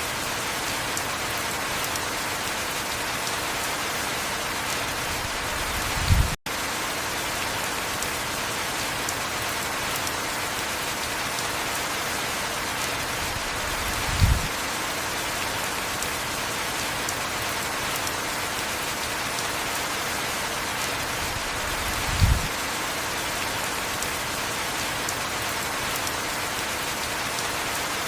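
Steady heavy rain. A short low thump comes about every eight seconds, and there is a momentary gap in the sound a little over six seconds in.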